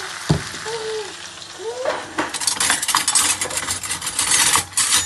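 A metal utensil stirring and scraping against a cooking pot, over the low sizzle of spices frying in oil. There is one knock early, and about two seconds in a fast run of scrapes and clinks begins.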